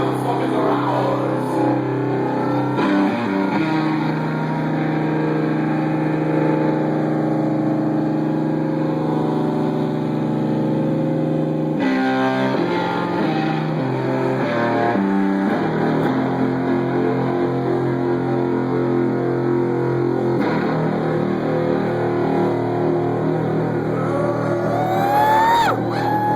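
Live stoner metal band playing an instrumental passage: heavy, sustained distorted electric guitar chords over bass and drums. The chords change every few seconds, and guitar notes glide in pitch near the end.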